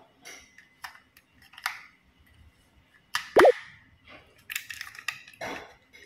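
Plastic toy trains knocking and clacking as they are handled: a string of separate clicks and knocks, the loudest about three seconds in and a quick run of them near the end.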